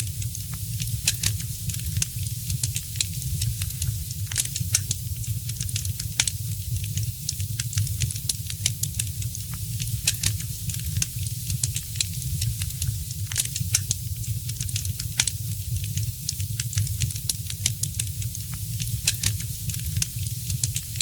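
Fireplace fire crackling with frequent sharp, irregular pops over a steady low rumble and hiss of the flames.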